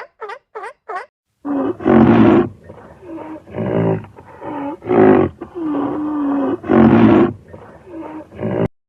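A big cat roaring and growling in a series of loud, rough calls, the loudest about two, five and seven seconds in, cutting off suddenly near the end. In the first second, a run of rapid pulsed calls from another animal trails off.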